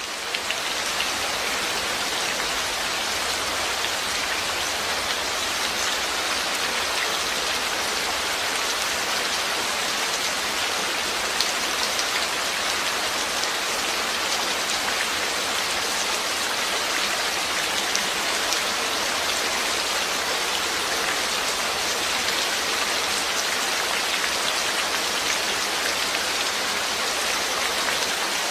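Steady rain falling, a dense even hiss with scattered individual drops ticking on a surface; it fades in over the first second and then holds steady.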